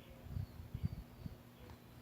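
Soft, low thuds of slime being handled and pressed, a few in quick succession, over a faint steady hum.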